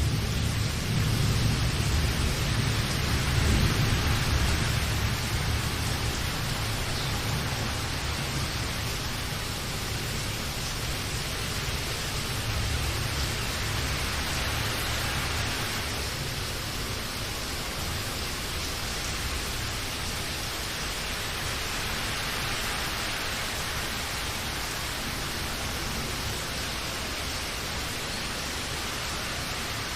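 Steady rain falling as an even hiss, with a low roll of thunder that dies away over the first several seconds.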